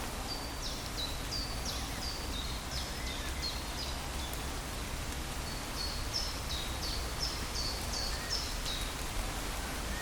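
Steady rain hiss with a songbird singing two runs of short, high, repeated notes, the song stopping about a second before the end.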